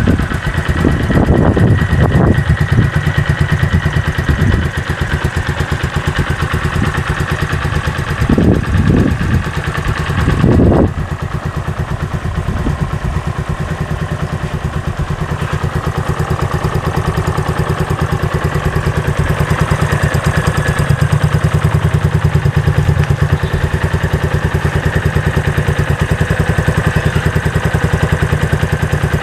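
Keeway Cafe Racer 152's carbureted single-cylinder four-stroke engine idling with the choke off, blipped twice: a short rev about a second in and another, longer one around eight to eleven seconds in, then settling back to a steady idle.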